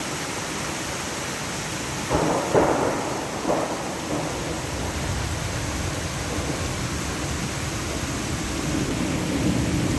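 Heavy rain falling steadily during a thunderstorm, with a burst of crackling thunder about two seconds in and a smaller one about a second later.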